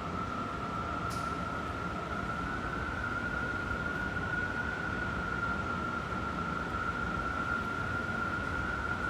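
Strong wind howling: a steady high whistling tone that drifts slightly in pitch over a continuous rush of air.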